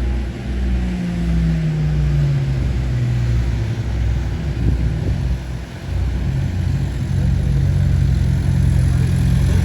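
Motorcycle engine running: its pitch falls as the revs drop over the first few seconds, then from about six seconds in a steady, slightly louder low engine sound takes over.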